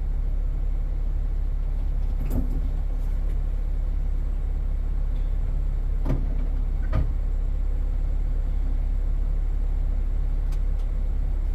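Off-road vehicle's engine running steadily with a low drone while it drives a rough trail, with three sharp clunks from the vehicle jolting about two, six and seven seconds in.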